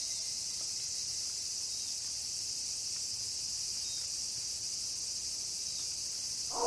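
Steady, high-pitched chorus of night insects, an even continuous hiss with no breaks.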